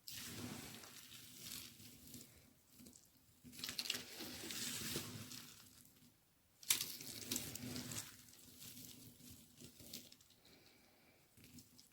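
A knife cutting through a bar of dry white baby soap: scraping, crunchy strokes. There are three long cuts, the third starting sharply about two thirds of the way through, then fainter scratching at the end.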